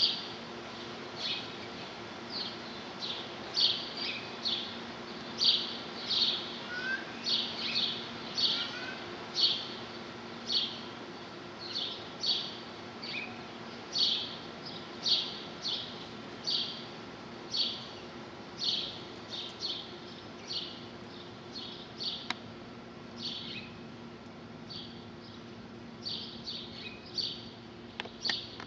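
A small bird chirping over and over, short high chirps coming irregularly about one or two a second, over a faint steady hum.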